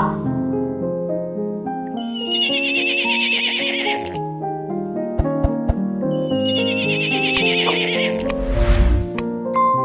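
A horse whinnying twice, each a trembling call of about two seconds, over background music with a few sharp knocks between the calls.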